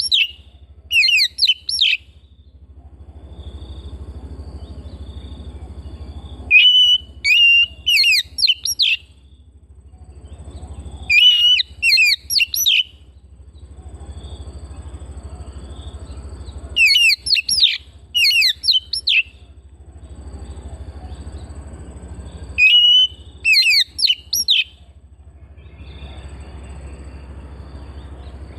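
Oriental magpie-robin (kacer) singing in repeated bursts of rapid, sweeping whistled notes, a phrase of two to three seconds about every five seconds. A steady low hum runs underneath.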